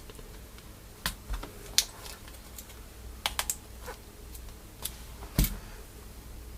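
Irregular sharp plastic clicks and clacks of Cherry mechanical keyboard switches being handled and pressed into a keyboard plate, the loudest about two and five seconds in.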